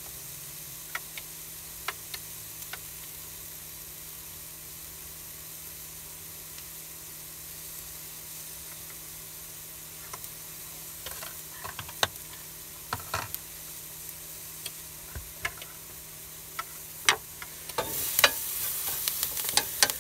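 Chopped bacon, onion and red and green peppers sizzling in a Ridge Monkey non-stick sandwich pan over a gas burner: a steady hiss with scattered pops and crackles. Near the end a wooden spatula starts scraping and turning them around the pan.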